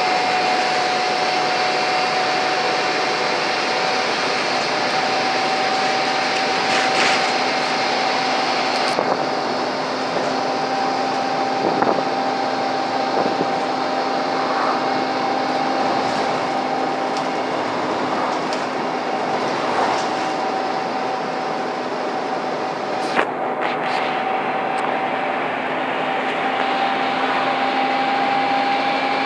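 Scania N230UD bus under load, its engine working hard with a steady hoover-like whine that rises slightly in pitch near the end, over a lower hum and a few short rattles.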